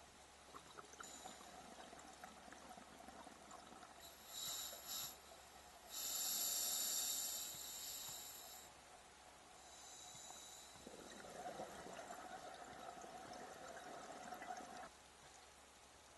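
Scuba diver breathing through a regulator underwater: two short hissing breaths, then a longer, louder hiss about six seconds in, followed by a rush of exhaled bubbles from about eleven seconds that stops a second before the end.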